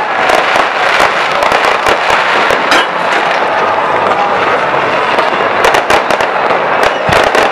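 Fireworks display going off: a dense, continuous crackle of many rapid sharp pops and bangs from rising comets and aerial bursts.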